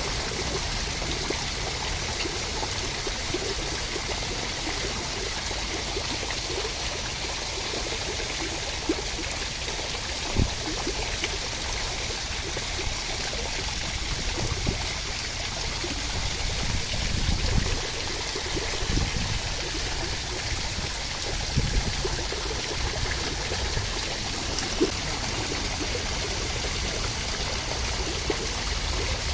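Steady rain, an even hiss of water with a few louder drops or low knocks scattered through the middle.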